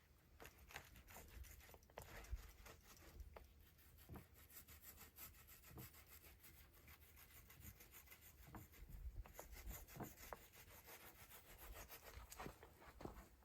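Faint, quick, repeated rubbing strokes of hand work on a drum shell during fibreglass coating.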